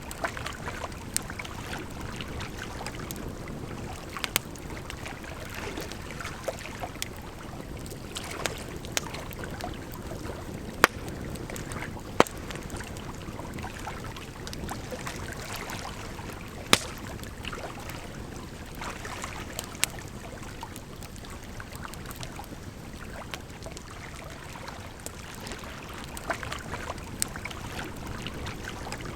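Wood campfire crackling, with irregular sharp pops and snaps, a few of them much louder, over a steady rush of flowing water.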